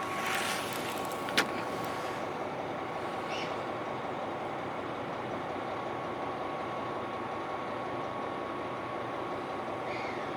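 Steady interior noise of a KiHa 261 series diesel railcar, with a faint steady whine, a brief hiss at the start and one sharp click about one and a half seconds in.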